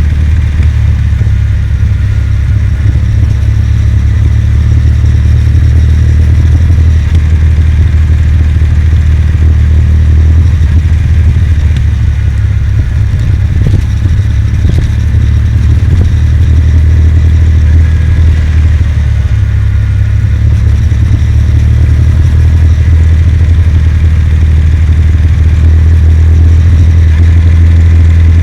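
Kawasaki W800's air-cooled parallel-twin engine running steadily while riding, loud and low-pitched.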